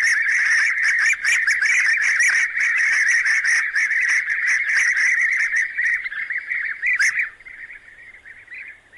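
Bee-eaters calling in a dense, continuous chatter of trilling chirps that fades away about seven seconds in.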